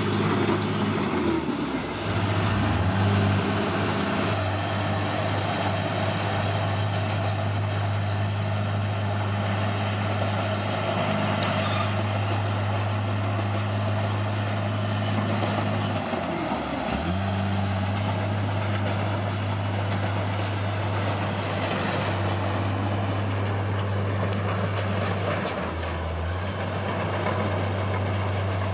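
Caterpillar D6R bulldozer's diesel engine running steadily, its note dipping briefly and recovering three times.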